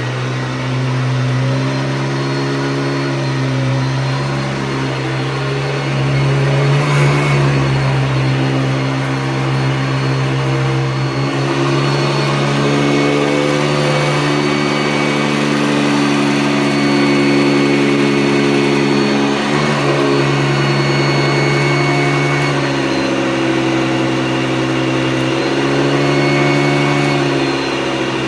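A 1985 Hoover Decade 80 upright vacuum, fitted with an 11-bladed motor fan, running continuously. Its steady motor drone shifts slightly in pitch several times.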